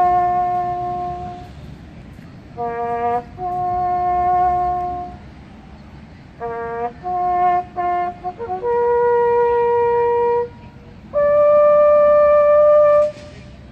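Solo bugle sounding a slow ceremonial call of single notes, with short pick-up notes leading into long held notes. The last held note, the highest, ends about thirteen seconds in.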